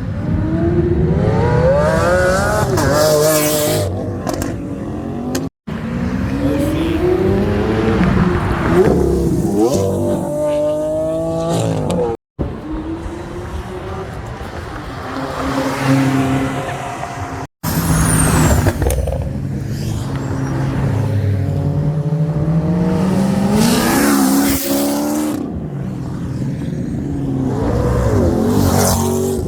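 Several cars revving hard and accelerating away one after another, the engine note rising in repeated sweeps as each pulls through its gears. The sound cuts off abruptly three times, between cars.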